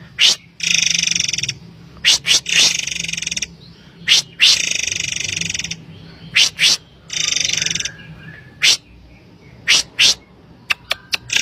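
Murai air (forktail) calls used as a lure: short, sharp, high whistled notes alternating with buzzy, rattling trills about a second long, with a faint low hum underneath.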